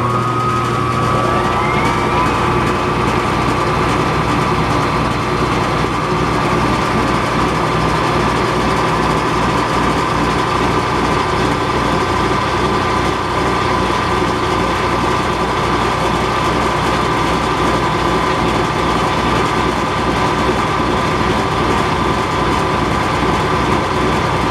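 Metal lathe starting up, its whine rising to a steady pitch within the first two seconds, then running steadily with an even low pulse during a boring-bar chamfering cut.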